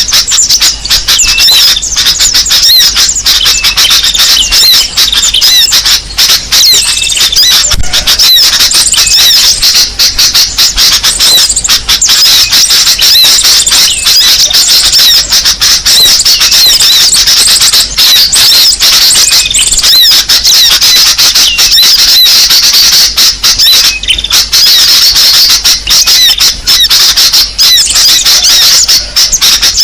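A dense chorus of small songbirds' chirps and squeaky calls, a recorded bird lure (suara pikat) played to draw in small birds. It runs loud and unbroken, with rapid high twitters and quick pitch glides overlapping constantly.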